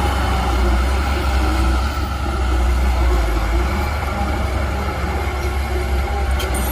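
Heavy diesel earthmoving machine running under load, a steady deep engine rumble with mechanical rattle over it. A few short sharp clicks come near the end.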